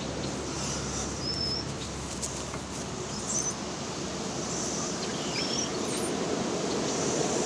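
A bird chirping faintly: short high chirps about every second and a half over steady background noise.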